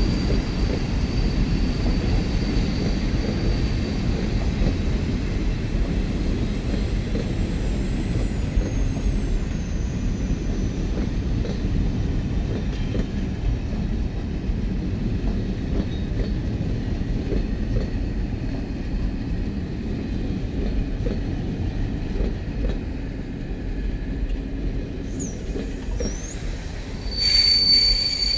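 Train of old passenger coaches rolling past on the adjacent track: a steady rumble of steel wheels on rail. A high-pitched wheel squeal comes in loudly near the end.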